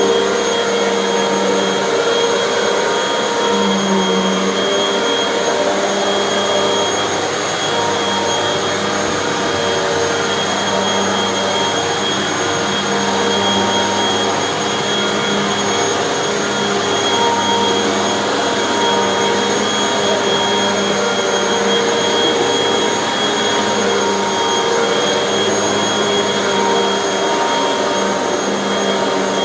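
Hoover bagless upright vacuum cleaner running steadily while being pushed over carpet. Its motor gives a constant whine with a high, even tone over the rush of airflow.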